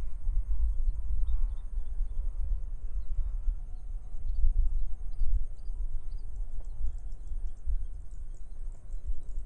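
Wind buffeting the microphone in an open rice field, a gusting low rumble that rises and falls, with faint scattered bird chirps and a steady faint high-pitched whine behind it.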